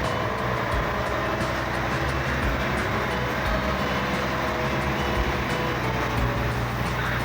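Heavy machinery running steadily.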